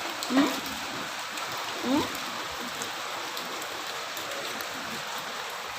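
Steady hiss of rain and hail falling together in a hailstorm.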